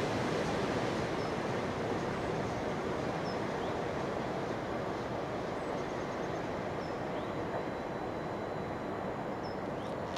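Freight train of hopper wagons rumbling away along the track, the noise slowly fading as it recedes. A few faint, short high chirps sound over it.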